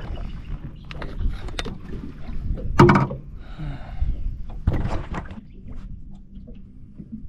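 Wind rumbling on the microphone, with several sharp knocks and some splashing on a small fishing boat while a freshly landed fish is handled. The loudest knock comes about three seconds in.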